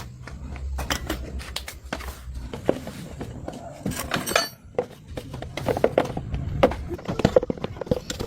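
Irregular metallic clinks and knocks. A low hum stops about two and a half seconds in.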